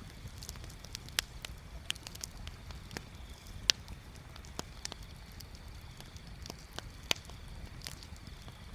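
Wood bonfire crackling: irregular sharp pops and snaps over a low steady rumble, with the loudest pops a little before four seconds in and about seven seconds in.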